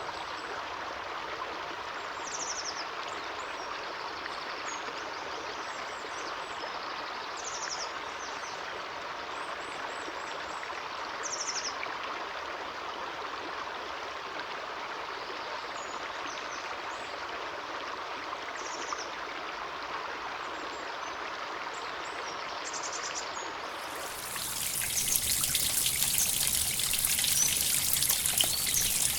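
Stream water flowing steadily, with a few short high chirps over it. About 24 seconds in, the sound switches abruptly to louder, closer trickling and splashing water.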